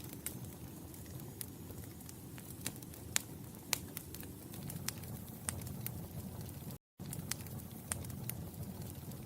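Wood fire in a fireplace crackling: sharp irregular pops and snaps over a steady low rumble of burning. The sound cuts out for a split second about seven seconds in.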